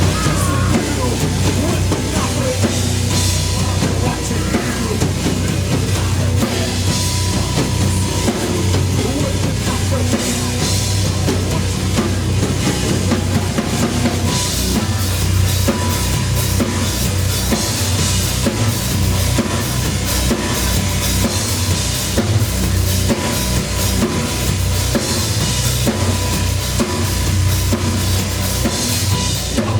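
Live rock band playing loudly, with the drum kit to the fore: steady kick drum and snare hits over a heavy bass line.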